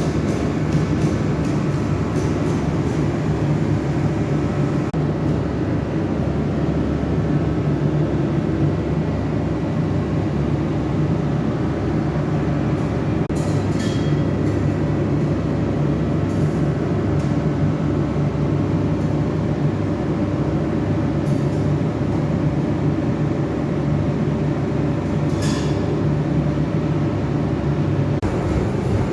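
Steady engine and road rumble of a moving vehicle, heard from on board, with a couple of faint clicks.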